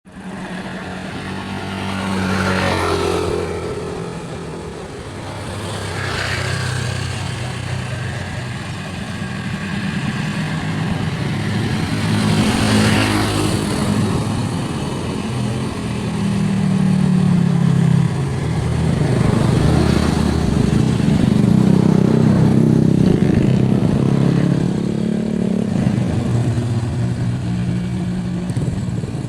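Motor vehicle engine running steadily, its pitch shifting up and down as it works a steep road. Louder swells of passing traffic come about 3, 6 and 13 seconds in.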